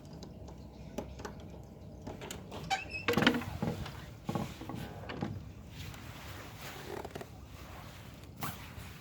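A door being opened: a run of clicks, knocks and rattles, loudest about three seconds in.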